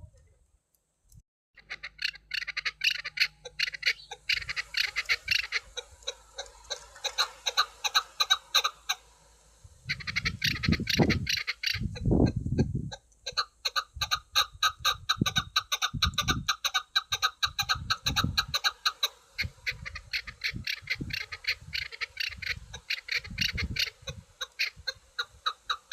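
Chukar partridge calling: long runs of rapid, repeated clucking notes that start about a second and a half in. Dull low thuds are mixed in through the second half.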